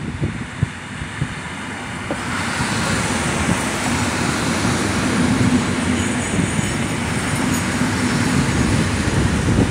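EN57 electric multiple unit running past close by, its wheel and running noise building from about two seconds in and holding steady, with a low steady hum under it.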